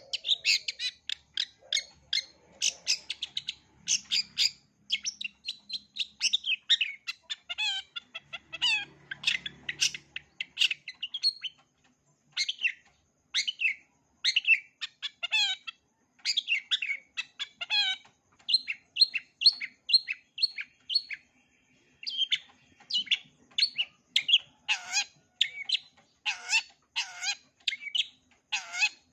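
Long-tailed shrike (cendet) singing a rapid, varied song of short sharp chirps, trills and mimicked phrases, with a couple of brief pauses. Louder, sweeping notes come near the end.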